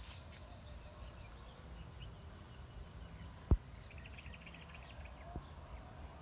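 Outdoor background with a low steady rumble, broken by one dull thump about halfway through and a fainter one near the end. A short, fast, faint chirping comes in just after the first thump.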